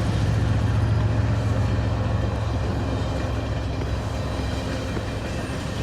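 Loaded coal train rolling past with a steady low rumble, fading slowly.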